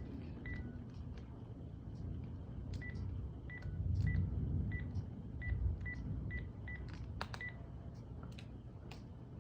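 Thunder rumbling low, swelling loudest about four seconds in and again a little later, over a string of about ten short high electronic beeps at uneven spacing and a few sharp clicks.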